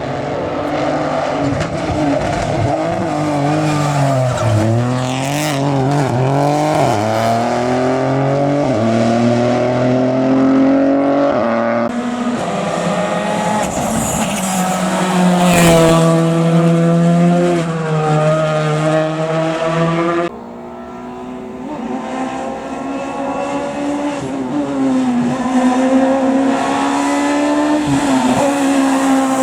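Rally cars driven hard on a stage, engines revving up and falling back through gear changes, with tyre squeal. A sharp crack comes about halfway through, and the sound changes abruptly twice as one car gives way to another.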